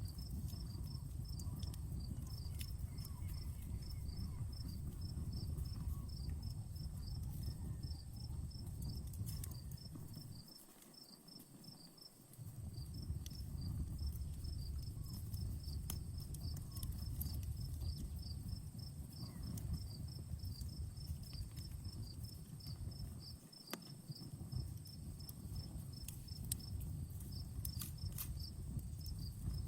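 Outdoor campfire crackling with scattered sharp pops, under a steady, rapid chirping of crickets. A low rumble underlies it and drops away briefly twice.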